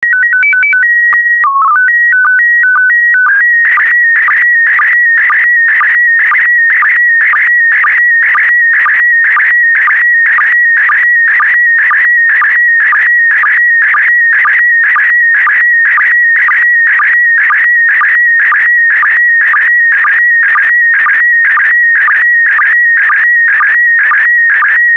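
Slow-scan television (SSTV) transmission in PD120 mode. It opens with a short run of stepped beeping tones, and from about three and a half seconds in it becomes the image-scan signal: a warbling tone near 2 kHz, pulsed about twice a second by the line sync.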